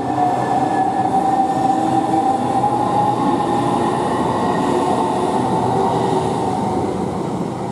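Southeastern Class 395 high-speed electric train pulling away, with a whine that slowly rises in pitch over the rumble of wheels on rail. It starts to fade near the end as the train draws away.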